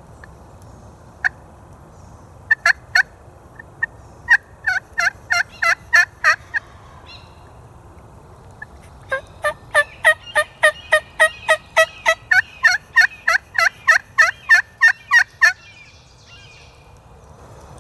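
Turkey yelping in loud two-part notes, each breaking from high to low, about three a second. A few single notes and a short run come first, then after a pause a long run of about twenty yelps.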